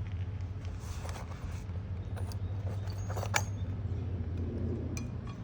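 A few light clinks and taps of hand tools and nails against roof shingles during a shingle repair, the sharpest about three and a half seconds in, over a steady low hum.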